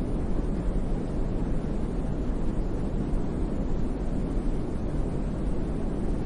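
Steady brown noise: a deep, even rumbling hiss, heaviest in the bass and thinning toward the treble, like a distant river or wind.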